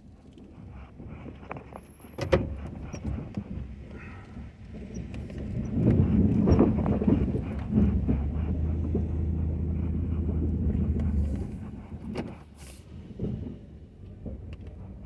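Ford F-250 pickup with a Western snow plow working, engine noise swelling for several seconds in the middle, with a steady low hum that starts and cuts off sharply after about three seconds. A single knock comes about two seconds in.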